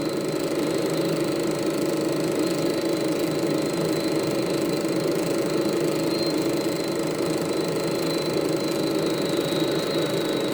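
Elmo Super 8 sound projector running steadily, its film-transport clatter mixed with an even rumble from the film's optical/magnetic soundtrack and a constant thin high whine.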